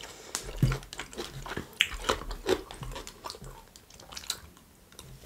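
A person chewing pizza close to the microphone: irregular wet clicks and smacks of the mouth, thinning out near the end.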